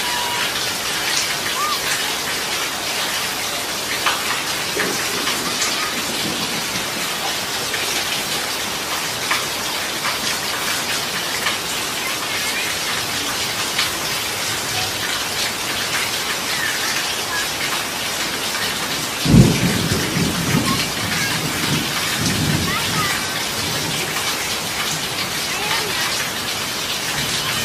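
Heavy rain falling steadily on a concrete street. About two-thirds of the way through, a sudden loud low rumble starts and dies away over a few seconds.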